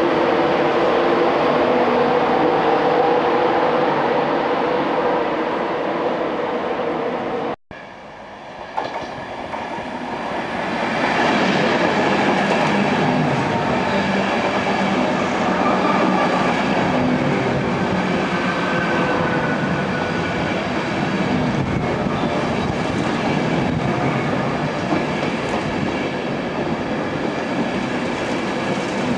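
InterCity 225 electric train (Class 91 locomotive with Mk4 coaches) running at a station platform: a steady rumble of wheels and traction with a few held tones. There is a sudden break about eight seconds in, after which the coaches roll slowly past and the noise swells back up and holds steady.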